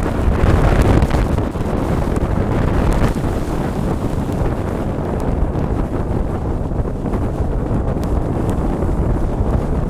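Strong mountain wind blasting the microphone: a loud, steady rumble of wind noise that is strongest about a second in.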